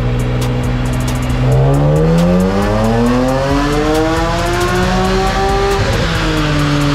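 BMW E46 M3 straight-six engine revving under full throttle in one long, steady climb up the rev range. About six seconds in it lifts off and the revs fall away.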